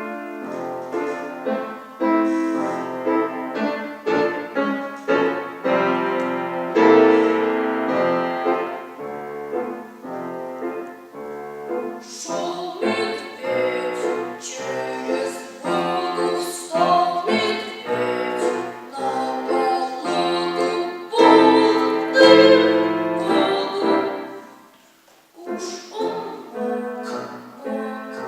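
Piano playing a simple song tune with chords, with a short break near the end before it starts again.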